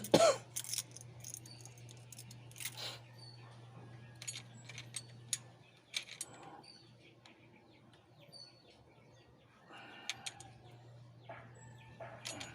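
Scattered metallic clicks and taps of hand tools and engine parts being handled during work on an Isuzu 4BA1 diesel engine, which is not running. A low steady hum drops out for a few seconds in the middle, and birds chirp faintly.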